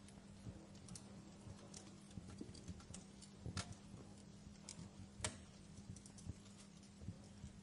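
Wood fire crackling in a fireplace, soft and faint: irregular small pops and snaps over a low steady hum, with sharper pops about three and a half and five seconds in.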